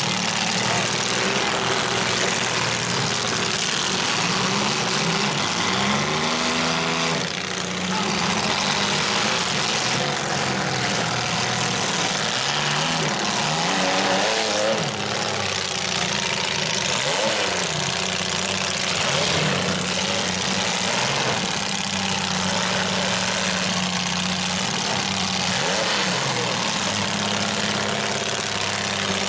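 Several demolition derby compact cars' engines running together, one or another revving up and down in pitch again and again, over a steady din.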